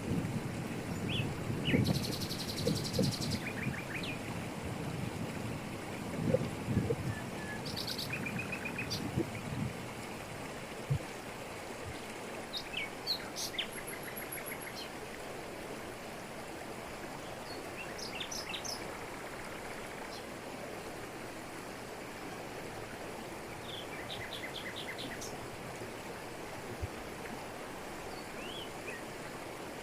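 Waterfall rushing steadily over rocks, with uneven lower surges of water during the first ten seconds. Birds chirp and trill here and there over it.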